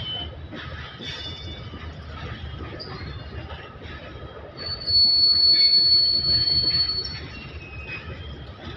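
Indian Railways goods train wagons rolling past with a steady rumble and scattered metallic wheel squeals. A loud, high, steady squeal starts about halfway through and lasts a couple of seconds.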